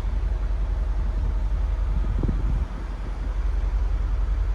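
Mercedes-Benz G63 AMG's 5.5-litre twin-turbo V8 idling with a steady low rumble.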